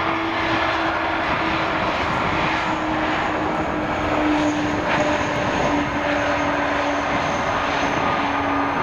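Jet aircraft engines running in a steady, loud roar, with a low hum that slowly drifts down in pitch and a faint high whine above it.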